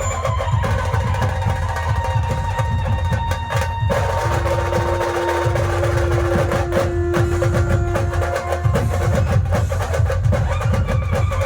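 Band music with dhol-tasha drums playing a fast, dense rhythm in the 'train sound' style, with a long held note from about four seconds in until nearly nine.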